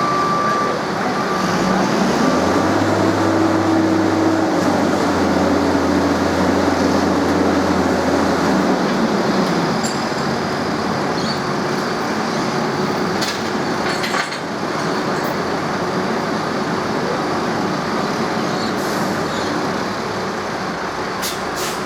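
Diesel engine of a cane-train locomotive running: its note rises, holds for several seconds, then eases off, over steady background noise.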